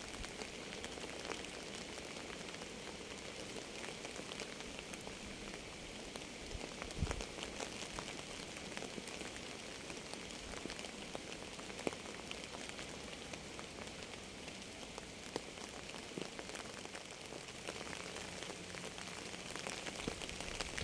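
Steady rain falling, an even hiss dotted with many sharp drop ticks, with a brief low thud about seven seconds in.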